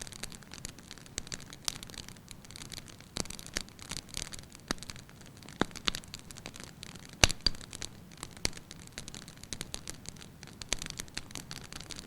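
Wood fire in a fireplace crackling: irregular sharp pops and snaps over a soft hiss, with one loud pop about seven seconds in.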